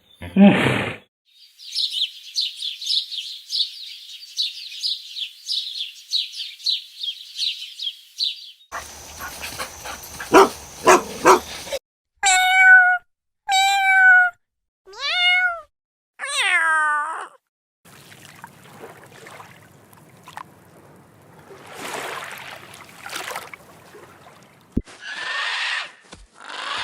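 A run of different animal calls one after another: a fast, high-pitched chirping trill for about seven seconds, then a jumble of calls, then four separate drawn-out pitched calls, each bending down in pitch at the end.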